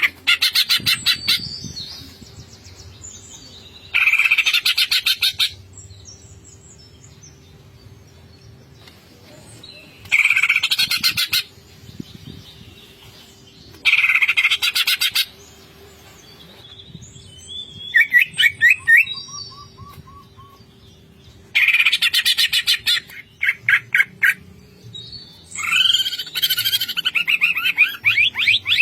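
Green leafbird (cucak ijo) singing in its rapid 'ngentrok' style: bursts of fast rattling notes come every few seconds. Between them are shorter, varied chirping phrases, and a longer run of mixed notes comes near the end.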